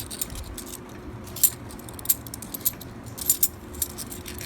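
Half dollar coins clinking against one another as they are handled and stacked: irregular sharp metallic clicks, the loudest about a second and a half in.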